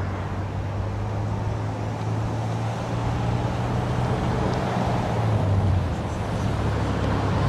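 An engine running steadily nearby, a low even hum, growing slightly louder in the second half.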